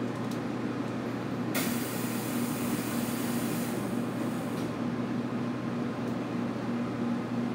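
Inside a stationary 811 series electric train: a steady hum of the car's idling equipment and air conditioning. About one and a half seconds in, a sudden hiss of compressed air starts and fades away over about three seconds.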